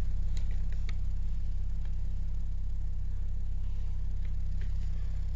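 Cerwin Vega Stroker 18D4 subwoofer playing a steady 17 Hz test tone, heard as a deep drone, with a few faint ticks scattered through it. The ticks come from cracked epoxy on the back of its worn cloth surround.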